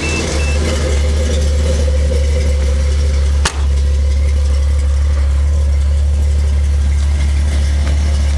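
1984 Toyota Supra's naturally aspirated 5M-GE inline-six idling steadily through a Thrush welded dual-chamber muffler, with no catalytic converter in the exhaust, giving a deep, even exhaust note. A single sharp click with a brief dip in sound comes about three and a half seconds in.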